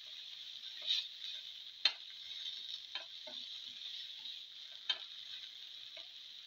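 Winter melon pieces, shallots, garlic and cumin seeds sizzling steadily in hot oil in a non-stick pan, stirred with a spatula that scrapes and knocks against the pan several times, most sharply about two and five seconds in.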